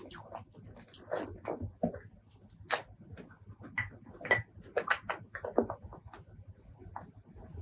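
Close-miked eating of spicy pork leg curry and rice: wet chewing and lip smacks in quick, irregular clicks.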